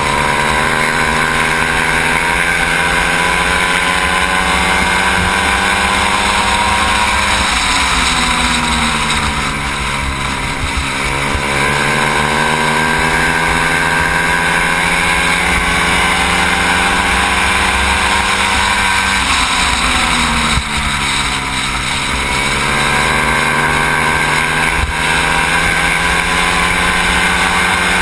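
110 cc racing motorcycle engine heard from onboard the bike at racing speed. Its pitch climbs steadily along the straights and drops sharply twice, about a third and about two-thirds of the way through, as the rider backs off for the turns.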